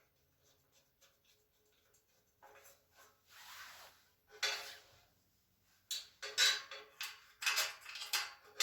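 Metal shelving parts and screws being handled during assembly: quiet at first, then a scrape and a sharp knock about four seconds in, and a run of clinks and clattering near the end.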